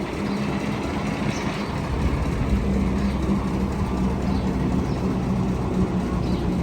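Cement mixer truck's engine running steadily: a continuous low rumble with a held hum, growing a little heavier about two seconds in.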